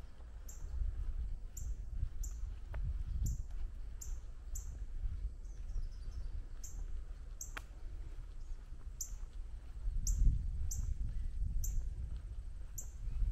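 A small bird calling over and over with short, very high chirps that drop in pitch, about one or two a second, over a low outdoor rumble that swells about ten seconds in.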